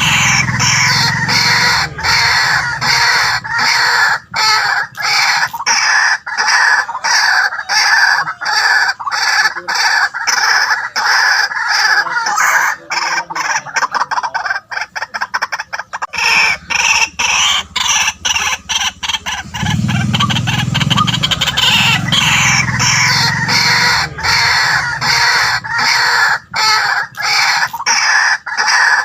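White-breasted waterhen calling: a loud, continuous run of rapidly repeated croaking notes, quickening about halfway through.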